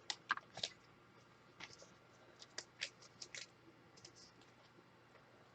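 Faint, irregular clicks and scratchy ticks of trading cards being handled, slid and tapped against each other and their packaging.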